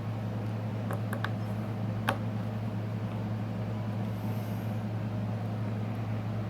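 A few light clicks of a small screwdriver working the screws of a Samsung Galaxy S6, over a steady low hum. The clicks come about a second in, again just after, and once more around two seconds in.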